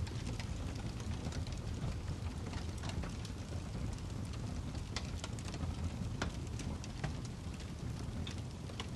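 Wood fire burning in a fireplace: a steady low rumble of flames with frequent irregular crackles and pops from the burning log.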